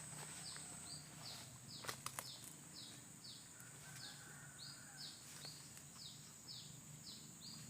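Faint outdoor ambience: a high chirping call repeated about twice a second, each chirp falling in pitch, over a steady high-pitched whine. A few faint clicks come about two seconds in.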